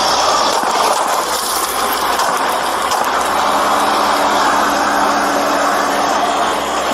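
A vehicle engine running steadily under a loud, even rushing noise, with a steady low hum joining about three seconds in.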